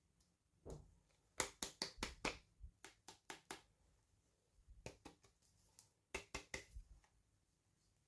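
Hands handling plastic toy packaging, making quick runs of sharp clicks and crackles in four or five clusters.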